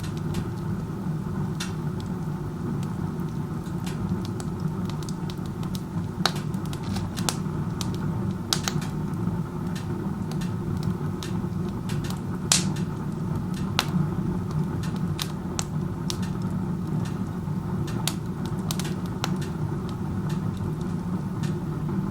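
Wood stove burning with its door open like a fireplace: a steady low rush of air being pulled hard up the chimney, the strong draft that the uploader says spoils combustion efficiency. Over it the burning wood crackles and pops irregularly, the sharpest pop about twelve seconds in.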